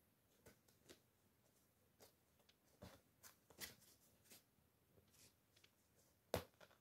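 Faint scattered rustles and light taps from kittens moving about at play, with one sharper knock near the end.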